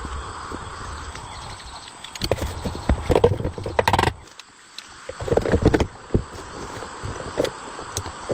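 Irregular knocking and clattering, in clusters of sharp knocks over a steady faint hiss.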